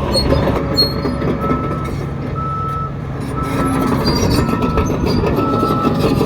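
Reversing alarm beeping about once a second, starting about a second in, over a heavy diesel engine running with metallic clanking, as from a bulldozer and dump trucks working.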